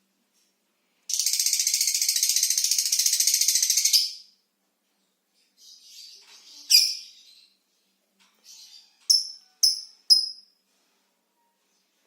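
Lovebird ngekek: a rapid, high chattering trill lasting about three seconds. It is followed by a few scattered short calls and then three sharp chirps in quick succession.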